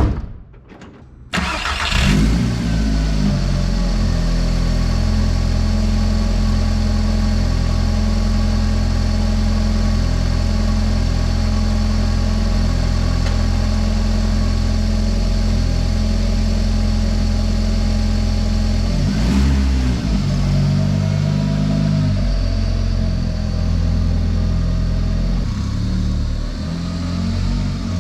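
A single sharp knock, then about a second in a VW 1.8-litre turbocharged four-cylinder (1.8T) engine starts and settles into a steady idle, with a brief change in the engine note about two-thirds of the way through.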